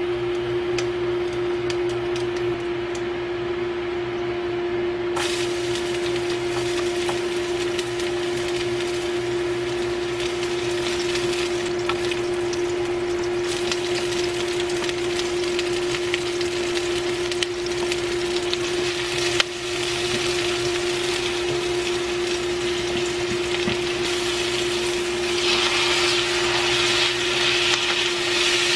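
Induction cooktop giving off a steady hum and tone while food fries in hot oil in a wok: sizzling starts suddenly about five seconds in as garlic and onions go into the oil. Near the end the sizzling gets louder as pork and tomatoes are stirred in with a spatula.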